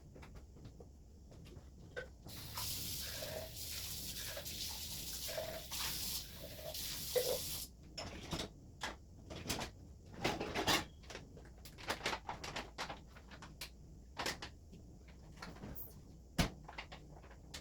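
Kitchen cleaning noises: a steady hiss for about five seconds, then a run of clatters and knocks from things being handled and set down.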